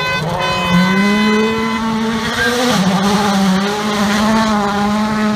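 A World Rally Car's turbocharged four-cylinder engine at high revs, its pitch climbing, dipping briefly near the middle at a gear change, then holding high.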